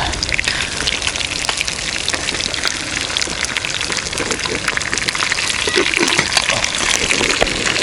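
Crucian carp frying in oil in a skillet: a steady sizzle with many small pops and crackles.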